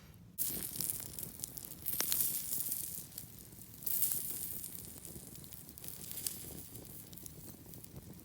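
Sausages sizzling over a campfire, with sharp crackles from the burning wood. The hiss swells suddenly three times, about half a second, two seconds and four seconds in, each time fading away.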